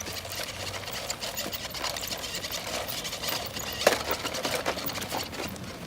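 Toy Land Cruiser monster truck's small electric motor running with a rapid, buzzing rattle as the truck drives, with a sharper knock about four seconds in.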